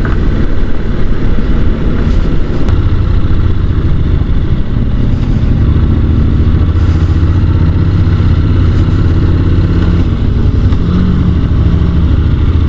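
Honda NC750 DCT motorcycle engine running steadily under way, with a continuous rush of wind and road noise over it.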